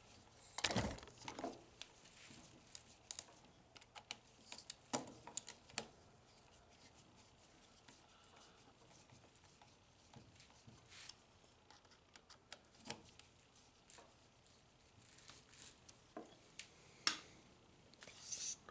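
Irregular small clicks and light knocks from handling and fitting the small metal and plastic parts of a vending machine's vend motor and switch assembly, a second or several seconds apart.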